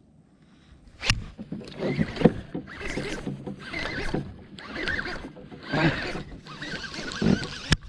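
Kayak being moved through the water: rhythmic swishing strokes about once a second, with a sharp click about a second in and another near the end.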